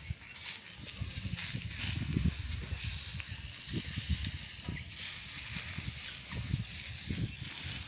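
Wind gusting over the microphone in uneven low rumbles, over a steady high hiss.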